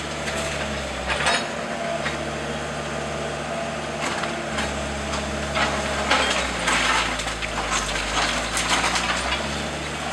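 A house being demolished by heavy machinery: timbers cracking, splintering and crunching in repeated bursts, thickest from about six to nine seconds in, over the steady running of the machine's engine.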